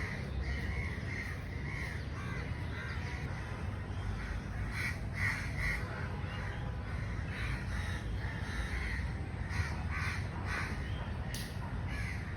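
Birds calling over and over in many short calls, several close together around the middle and end, over a steady low rumble.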